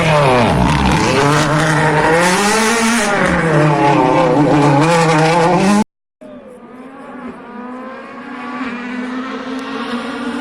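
Rally car passing close under hard acceleration, its engine pitch swinging up and down through gear changes. After an abrupt cut about six seconds in, another rally car is heard approaching, its engine note quieter and building.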